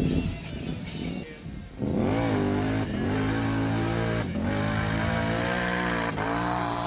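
Off-road vehicle engine revving hard, coming in loud about two seconds in; its pitch drops and climbs back three times as it pulls.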